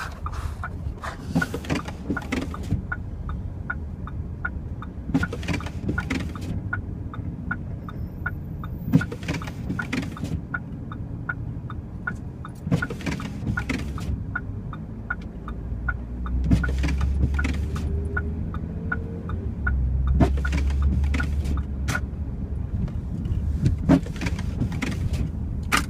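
Car cabin while driving on a snowy road: steady low engine and road rumble that grows louder about sixteen seconds in, with a fast even ticking of roughly two to three clicks a second and brief noisy sweeps every second or two.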